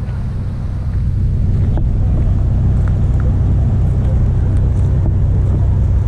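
Wind buffeting the GoPro's microphone: a loud, steady low rumble with a few faint clicks over it.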